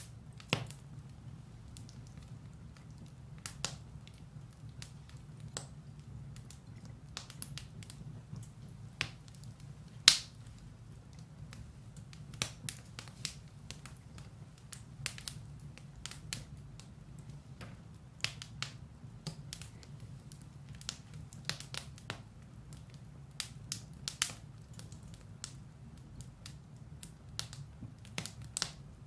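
Firewood burning in a fireplace: irregular sharp crackles and pops over a low steady rumble, with one loud pop about ten seconds in.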